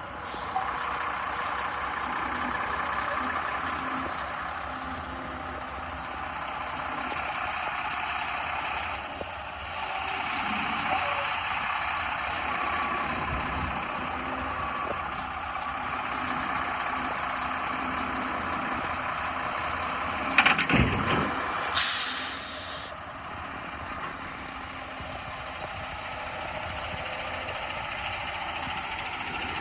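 2008 Mack GU713 dump truck running steadily. About two-thirds of the way through there is a sharp burst and then about a second of loud air hiss from its air brake system.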